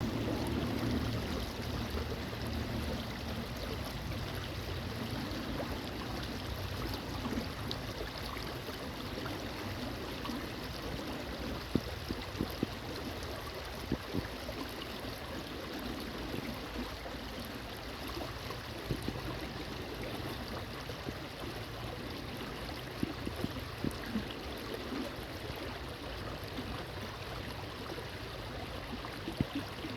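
A shallow stream's water flowing and rushing steadily, with a few brief clicks here and there.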